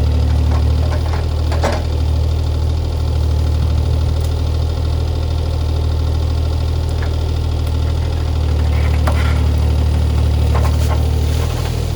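Diesel engine of a CAT 303C CR mini excavator running steadily while it works, with a few sharp cracks and clanks as it clears brush and debris.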